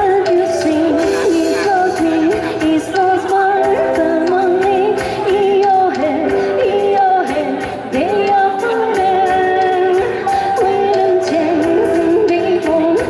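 Music with a voice singing a melody over an instrumental backing.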